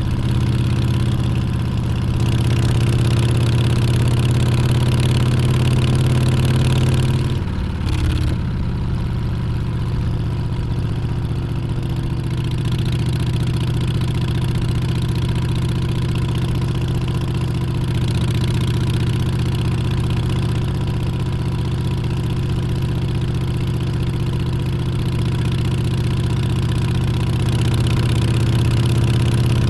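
Harley-Davidson Street Bob's Milwaukee-Eight 114 V-twin running under way at a steady pace. About seven and a half seconds in there is a brief drop in the engine note. The note then holds steady, sinking slowly in pitch, and climbs again near the end.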